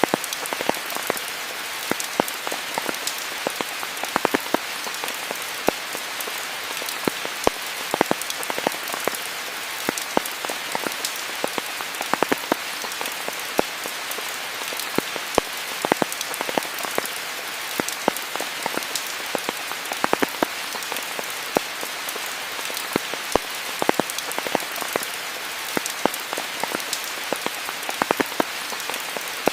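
Steady rain: an even hiss with many sharp, close drop taps at irregular moments.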